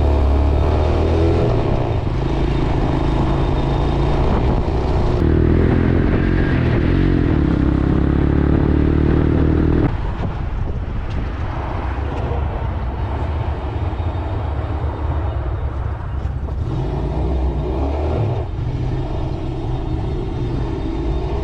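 A 250cc gas motorcycle engine running, loud in the first half with its pitch rising as it revs up, then dropping suddenly to a quieter running sound about halfway through.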